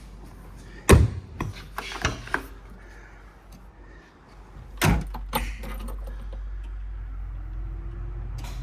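Sharp clanks and knocks, like a door and keys, then an engine starts about five seconds in and settles into a steady idle.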